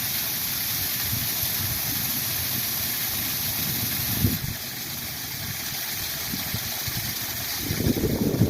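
Waterfall rushing steadily, with a small shift in its tone about halfway through. Near the end, low gusts of wind buffet the microphone.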